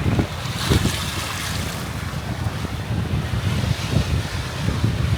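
Wind buffeting the microphone in gusts, over the hiss of surf washing onto the beach.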